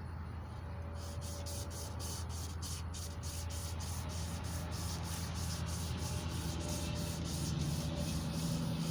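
Emery cloth strip pulled back and forth around a small-block Chevy 350 crankshaft journal to polish it: rhythmic rubbing strokes, about three a second, starting about a second in.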